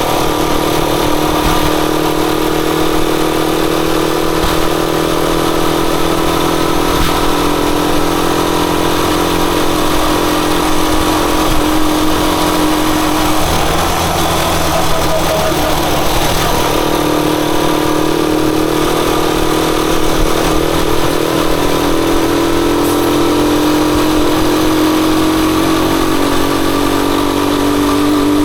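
Rusi Chariot 175 motorcycle engine running under way at a fairly steady pitch, with a rushing noise over it. The engine note dips and wavers about halfway through and climbs again near the end.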